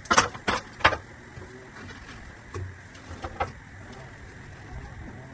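Plastic drain pipe and fittings knocking together as they are handled and test-fitted: three sharp knocks in the first second, then a few lighter knocks about three seconds in.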